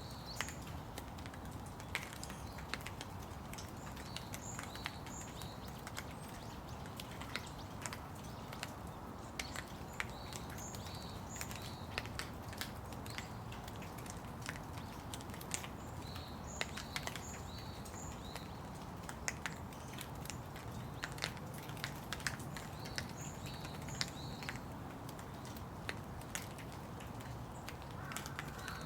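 Steady rain with scattered drops ticking sharply on nearby surfaces, while a small bird chirps again and again in short high notes, often in pairs.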